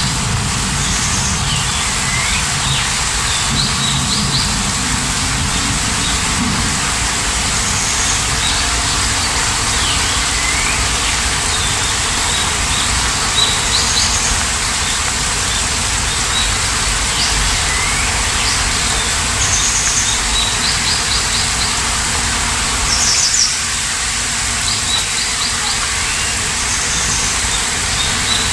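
Steady rain, with small songbirds chirping over it in short, repeated high trills and rising whistles every second or two.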